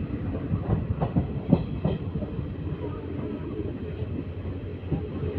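Passenger train running along the track: a steady low rumble, with a few sharp knocks of the wheels over rail joints about one to two seconds in.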